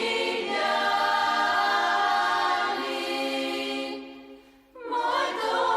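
Background music of a choir singing long held chords, breaking off briefly about four and a half seconds in and then starting again.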